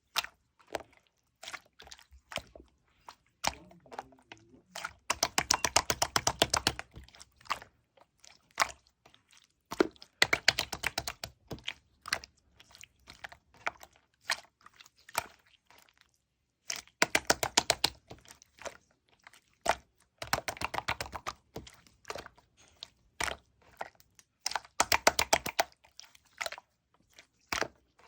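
Yellow clear slime with round beads on top being pressed and squeezed, giving runs of rapid crackling pops and crunches a second or two long, with scattered single clicks and pops between them.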